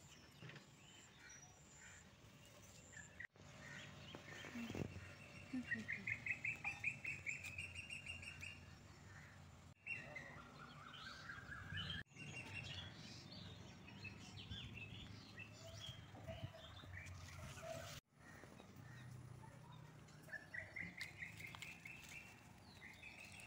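Small birds singing and chirping; a rapid, rising trill comes several times among scattered higher chirps, over a faint low hum.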